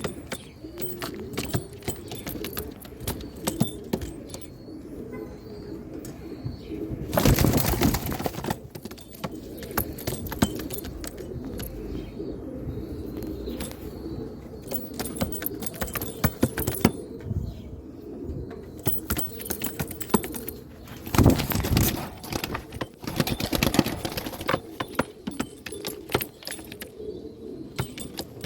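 Domestic pigeon cocks cooing continuously, with many sharp clicks and three loud rustling bursts: one about a quarter of the way in and two more past two-thirds.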